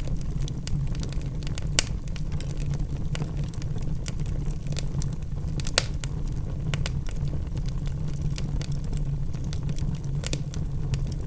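Logs burning in a fireplace: irregular crackles and pops over a steady low rumble, with two sharper pops about two and six seconds in.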